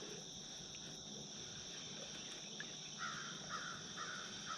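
A steady chorus of insects, with a crow cawing four times in quick succession about three seconds in.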